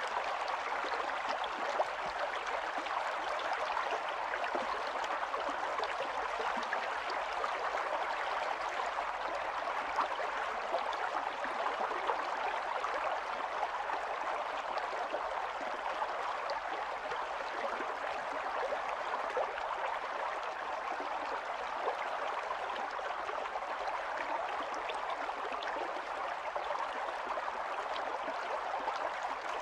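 Small stream running and babbling steadily over stones, a continuous rush of water with fine splashes and gurgles.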